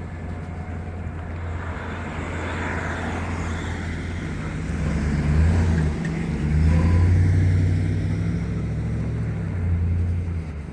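Road traffic: cars passing on a street, a low rumble that swells about halfway through and again near the end.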